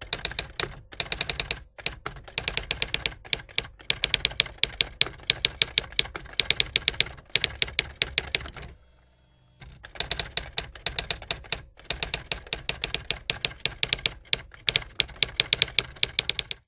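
Typewriter typing: rapid key strikes, about ten a second, in runs with short breaks, and a pause of about a second midway.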